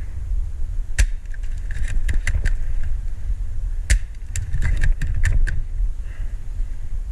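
Airsoft guns firing in short strings of sharp clicks, a single shot about a second in, then quick runs of several around two seconds and again from about four to five and a half seconds, over a steady rumble of wind on the microphone.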